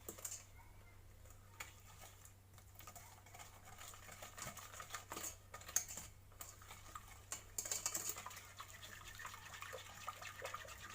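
Faint, quick clicking of a whisk beating sugar into the cream mixture in a saucepan, the wires ticking against the pan, busier in the second half.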